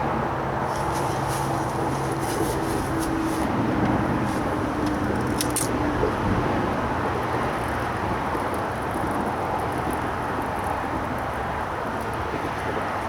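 Steady road-traffic noise from the A14 bridge, with a vehicle's engine hum over roughly the first half and scattered faint high clicks.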